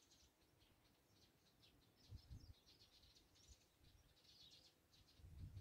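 Near silence with faint, scattered high bird chirps, and a soft low thump about two seconds in.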